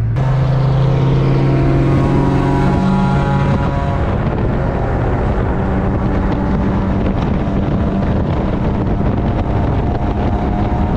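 A 2004 Honda Civic coupe's engine pulling the car along, heard from inside the cabin over road and wind noise. It holds one deep steady note for about four seconds, then the note changes and settles.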